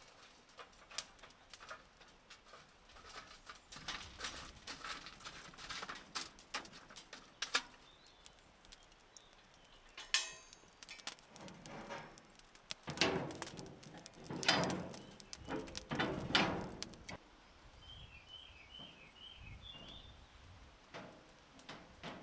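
Irregular clicks and knocks, busiest and loudest in the second half, then a bird chirping a quick run of five short notes near the end.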